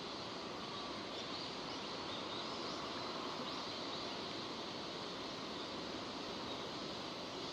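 Steady rain falling, an even hiss with no breaks, with a few faint short high chirps now and then.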